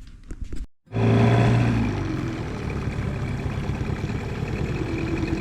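A boat's outboard motor running steadily, starting abruptly about a second in after a few light clicks.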